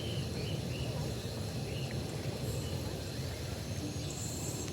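Outdoor ambience: a steady low rumble, with a few short bird chirps in the first two seconds.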